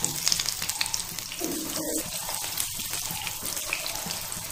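Shami kabab patties shallow-frying in hot mustard oil in a flat pan: a steady sizzle with small crackles as more patties are laid into the oil.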